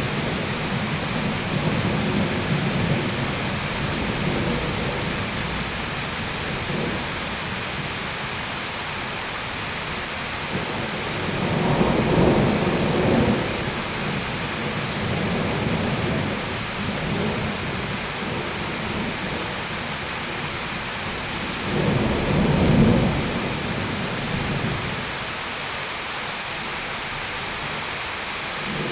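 Steady heavy rain with rolls of thunder: two louder low rumbles, one near the middle and one about two-thirds of the way through, with softer grumbling early on.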